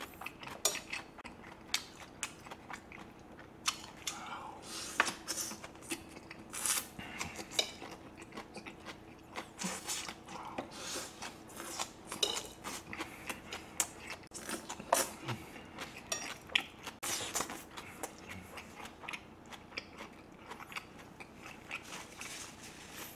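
Close-miked chewing and crunching of bell pepper strips and vegetables, with many short wet clicks and occasional clinks of metal tongs against the plate.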